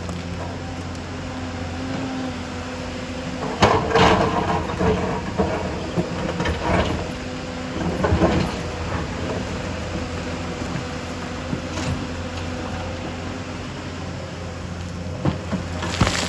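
Excavator diesel engine running steadily, with clattering knocks and scrapes from the bucket and rock a few times, loudest about four seconds in.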